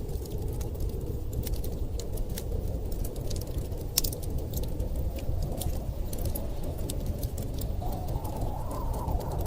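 Wood fire crackling with frequent small sharp pops, one louder pop about four seconds in, over a steady low rumble of storm wind. A faint wind whistle rises and falls near the end.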